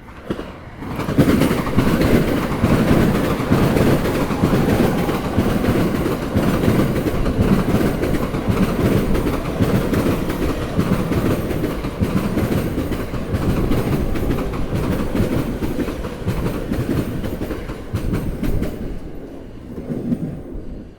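Sobu Line electric train passing over rail joints, its wheels clattering loudly and continuously across the joints; the sound comes up about a second in and dies away near the end.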